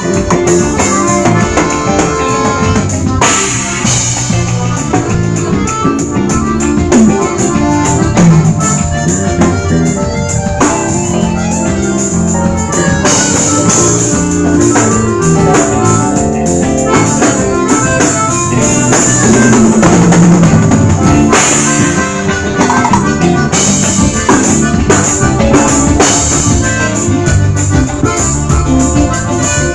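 A live band playing continuously, with a drum kit keeping a steady beat.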